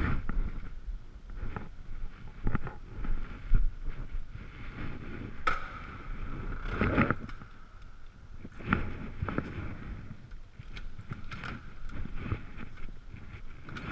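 Riding noise from an Ekoway ML5000 electric scooter in the rain: wind rumbling on the microphone and tyre noise on a wet road, with a steady high whine and scattered knocks from bumps.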